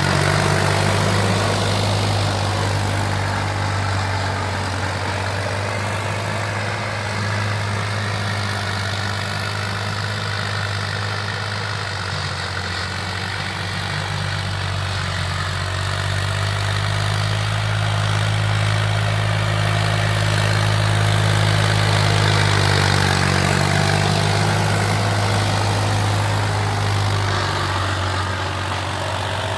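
Farm tractor's diesel engine running steadily while tilling a field, a low drone that swells and eases a little as the load changes.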